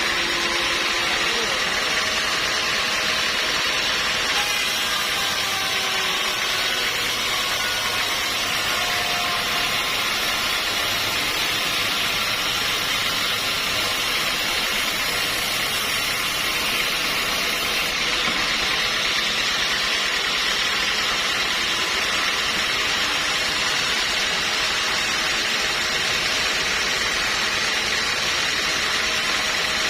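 Sawmill machinery running steadily: an even, continuous engine-driven noise with no breaks or pauses.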